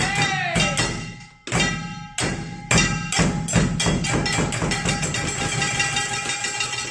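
Japanese percussion ensemble playing a closing piece: fast, dense strikes with a steady ringing tone held beneath them, a short break about a second and a half in, and the playing fading out at the end.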